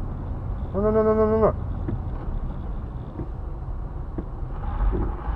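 Steady low rumble of a vehicle driving, heard from inside the cab. About a second in there is one short, flat-pitched tone lasting under a second.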